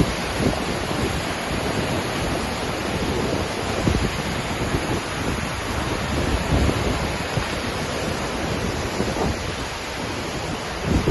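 A waterfall's steady rush of falling water, with wind buffeting the microphone in irregular low gusts.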